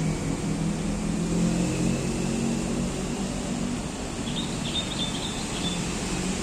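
Steady hum of road traffic, with a bird chirping briefly about four seconds in.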